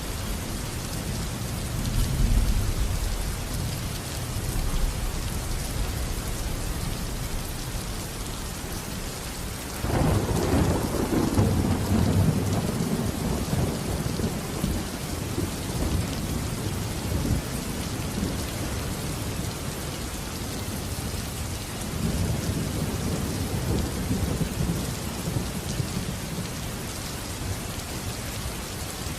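Steady rain falling with thunder: a low rumble about two seconds in, a sudden thunderclap about ten seconds in that rolls away over several seconds, and another low rumble a little past twenty seconds.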